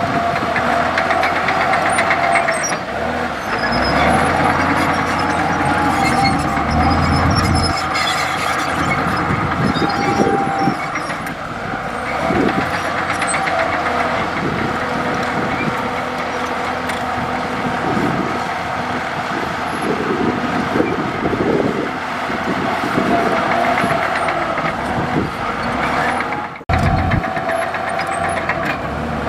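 Komatsu D65E crawler bulldozer's diesel engine running with a steady whine, with many irregular knocks. The sound drops out briefly near the end.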